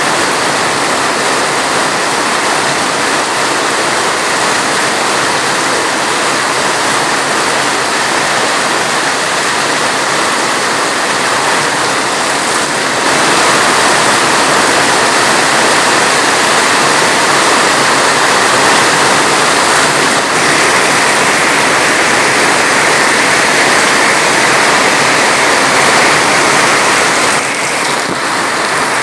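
Heavy rain falling steadily, a dense even hiss that grows a little louder about halfway through and eases briefly near the end.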